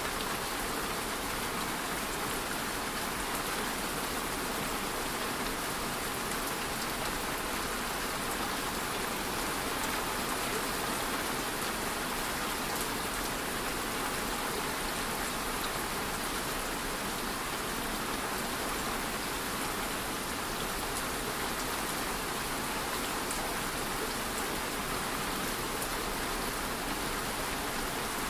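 Steady rain falling and pattering on surfaces, an even hiss with faint drop ticks and no change over the whole stretch.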